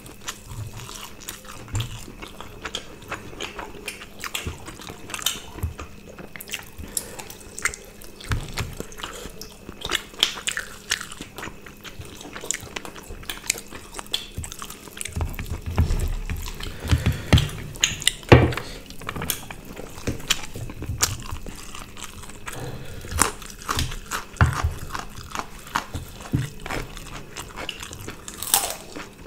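Close-miked eating sounds of people chewing and biting roast chicken and rice eaten by hand: a steady run of mouth smacks and clicks, with a faint steady hum underneath.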